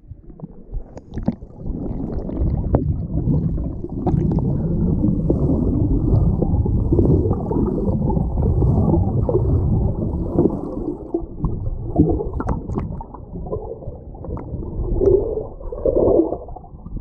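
Muffled riding noise of a Yamaha Ténéré motorcycle on the move: wind buffeting the microphone over the bike's running, swelling and easing unevenly.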